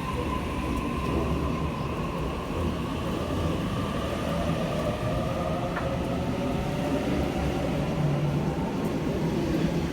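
Waratah Series 2 electric train pulling out of the station, with a faint motor whine over a steady low rumble.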